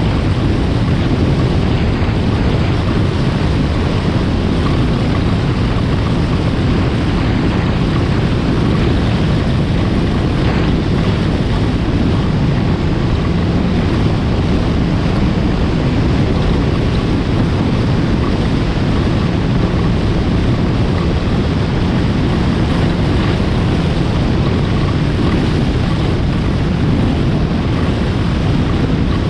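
2020 Yamaha FX SVHO personal watercraft's supercharged four-stroke engine running steadily at speed, with the hull running over water and wind rushing over the microphone.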